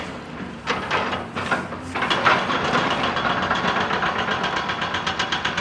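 Excavator-mounted hydraulic rock breaker hammering rock in rapid, evenly spaced blows over the excavator's diesel engine. The blows are softer and broken up for about the first two seconds, then run steady and louder.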